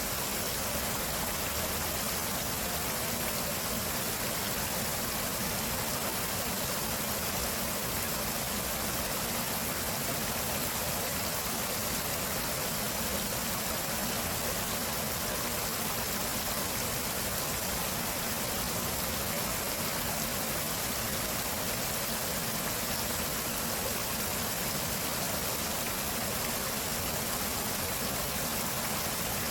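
Water of a stream running, a steady even rush of water.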